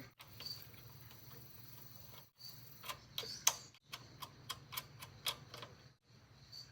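A series of sharp light clicks, about two a second, over a faint steady low hum.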